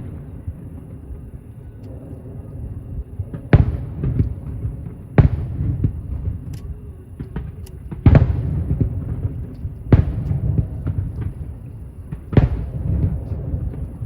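Aerial firework shells bursting at a distance: about five loud booms, each trailing off in a long echoing rumble, with smaller pops and crackles between them.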